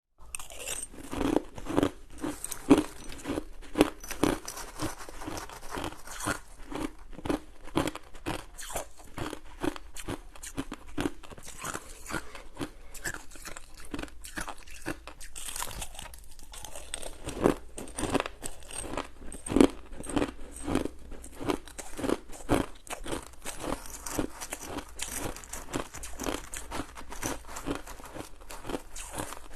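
Someone chewing ice close to the microphone: a rapid, irregular run of crunches, with a few louder bites.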